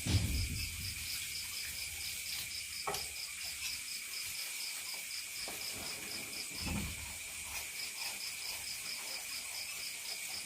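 Insects chirping in an even rhythm of about four to five short, high pulses a second, over a steady high drone, with a few faint low thumps.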